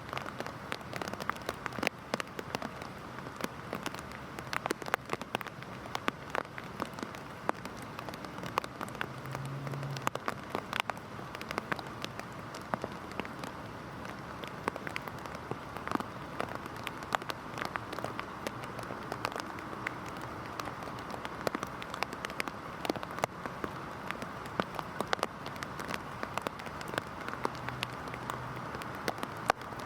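Heavy rain falling steadily, a constant hiss dotted with many sharp individual drop hits.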